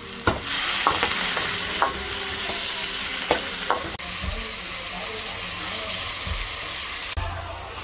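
Diced tomatoes and red onion sizzling in a hot wok as they are stirred. A few sharp clinks of a metal spatula against the pan come in the first four seconds.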